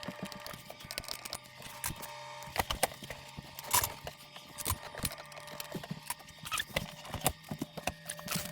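Irregular clicks, taps and knocks of hand tools and parts being worked against wood and metal while a dishwasher is fastened into a kitchen cabinet, over a faint steady low hum.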